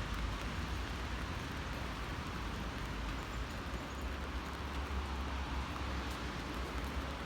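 Steady hiss of falling rain, with a low fluctuating rumble of wind on the microphone.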